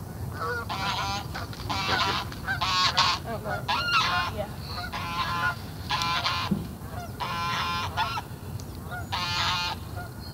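Geese honking: a series of about eight loud, separate honks, roughly one a second.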